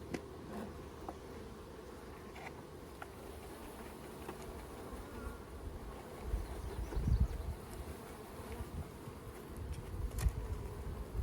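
A mass of package honey bees buzzing steadily as they are being shaken out and moved into a new hive, with a few stronger low rumbling swells about halfway through and near the end.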